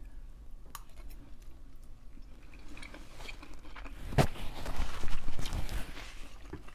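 A person eating close to the microphone, with wet, irregular mouth sounds of chewing. A sharp click about four seconds in is followed by a couple of seconds of louder chewing.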